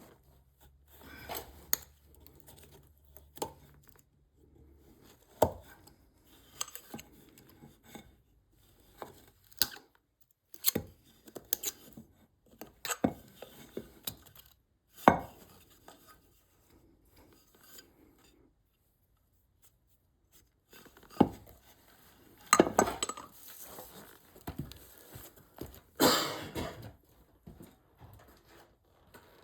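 Hand tools and wood being handled on a work surface: irregular knocks, clinks and clatters with some stretches of scraping, and a brief lull in the middle.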